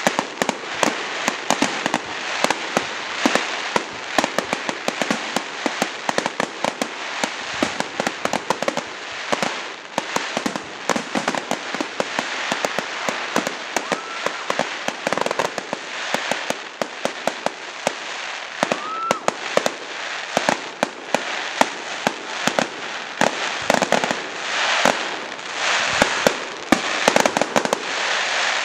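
Fireworks going off in a dense volley: many sharp cracks and pops close together, with two brief whistles near the middle.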